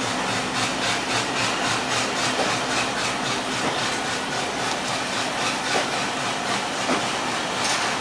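Broad-gauge passenger coaches rolling past close by: a steady rumble of steel wheels on rail, with a regular clicking of the wheels over the rail joints, about three a second, that fades in the second half.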